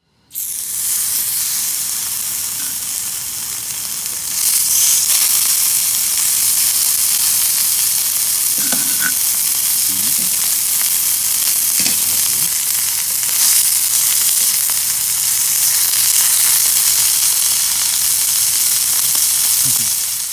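Food sizzling in a hot pan: a steady frying hiss that gets louder about four seconds in.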